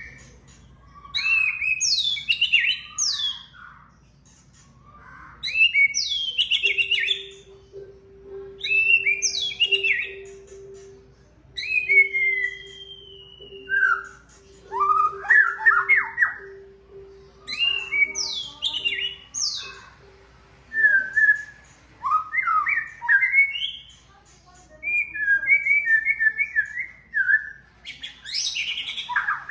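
White-rumped shama (murai batu) singing in a recording used as a lure or training song. It gives short bursts of varied whistles and fast sweeping notes, one every couple of seconds, and a steady low hum runs under the song from about seven to twenty-one seconds in.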